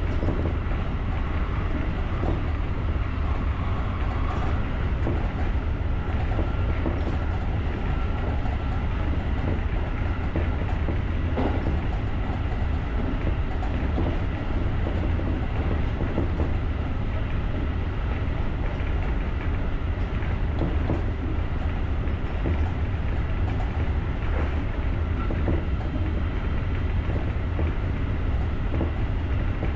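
Japanese electric rapid commuter train running at speed, heard from the driver's cab: a steady low rumble of wheels on rail with scattered light clicks over rail joints.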